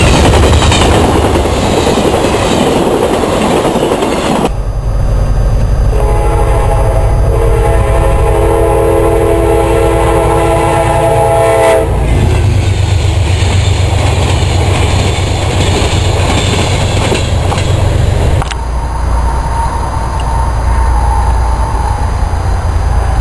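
A passenger train passing at speed, a loud rush of wheels and rumble on the rails. About five seconds in, a locomotive air horn sounds a chord of several notes held for several seconds and cuts off; train rumble and wheel noise follow.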